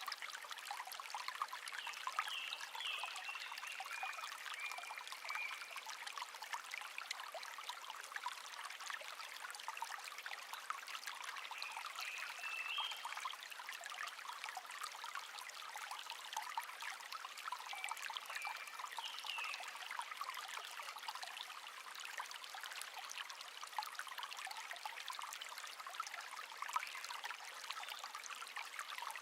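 Shallow brook trickling and babbling steadily. A wild bird sings short chirping phrases over it a few times, with gaps between them.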